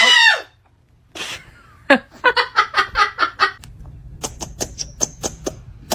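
A parrot's loud screech that breaks off just after the start, then a fast run of about ten short, harsh calls, followed by a string of sharp, high chirps.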